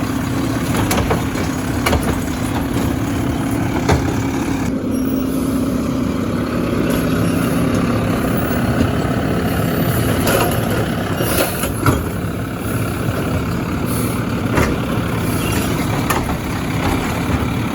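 Garbage truck engine running steadily while its hydraulics work, with a steady hum and intermittent metal clanks and knocks, the loudest about four and twelve seconds in.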